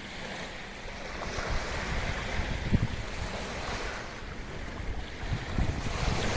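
Sea waves washing in and drawing back on the shore of a sheltered bay, swelling twice, with gusts of wind buffeting the microphone in low rumbles.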